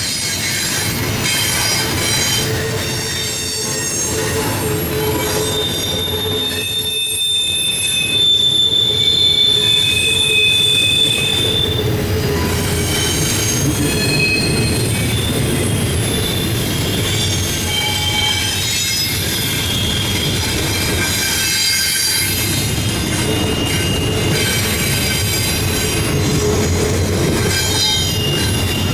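CSX intermodal freight train rolling past, its wheel flanges squealing against the rail in many shifting high tones over a steady rolling rumble.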